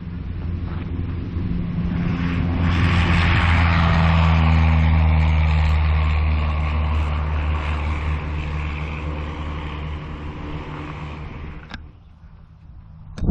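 Aircraft engine running steadily, growing louder over the first few seconds and then fading away. The sound drops off abruptly near the end.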